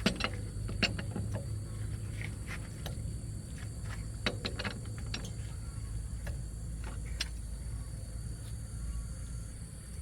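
Scattered light metallic clinks and taps from hand tools and wheel parts being handled, a few at a time with pauses between, over a low steady hum.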